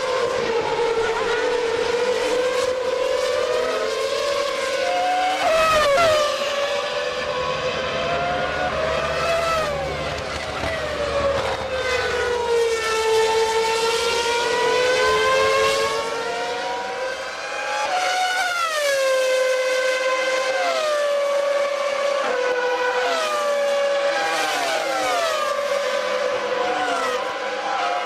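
Formula One race car engines running at high revs, the pitch climbing and then dropping sharply again and again as the cars change gear and brake.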